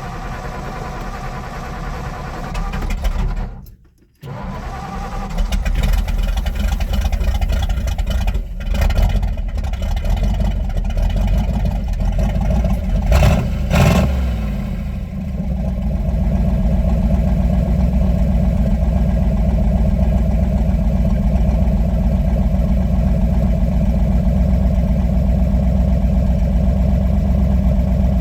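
A 1957 Ford Fairlane 500's engine is being cold-started with its automatic choke not set, because the pedal was not floored first. It is cranked, stops about four seconds in, then catches and runs unevenly with several revs. About fifteen seconds in it settles into a steady idle.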